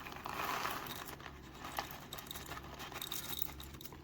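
Coffee beans being poured into the hopper of a manual coffee grinder: a light, scattered patter of small clicks.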